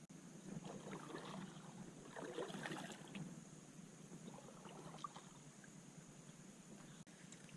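Kayak paddle strokes in calm water: a few faint swells of splashing and dripping as the blade dips and lifts.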